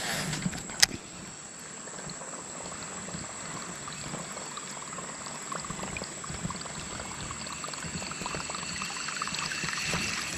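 Shallow creek water trickling and splashing, with many small ticks and one sharp knock just under a second in.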